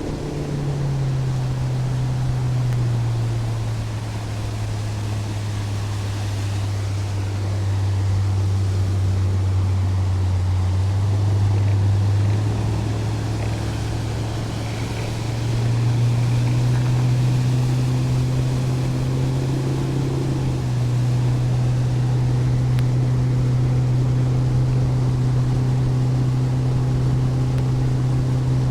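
Boat motor running underway at cruising speed. Its pitch drops a little in the first few seconds, then rises about eleven seconds in and again around fifteen seconds in, holding steady after that.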